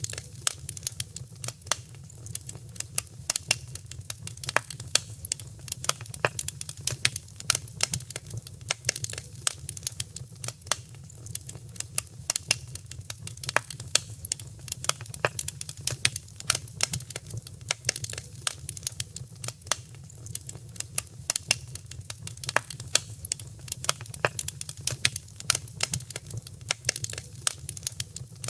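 Wood fire crackling steadily in a fireplace: a dense run of sharp irregular pops and snaps over a low steady rumble of the flames.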